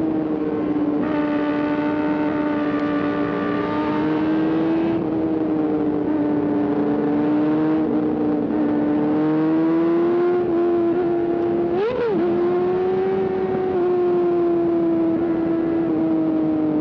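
Kawasaki ZX-4RR's inline-four engine running at steady high revs under a steady rushing hiss. The pitch swings slightly, with a quick rise and fall about twelve seconds in.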